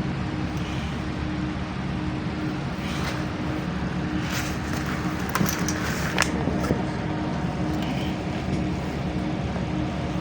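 Inside the cabin of a moving LiAZ-5292 city bus: steady engine and road noise, with a cluster of sharp rattles and knocks in the middle.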